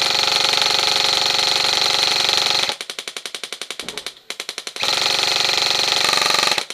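Airsoft electric guns firing full-auto: a very fast, buzzing burst for nearly three seconds, then a stretch of slower rapid shots with a short break about four seconds in, then another long fast burst near the end.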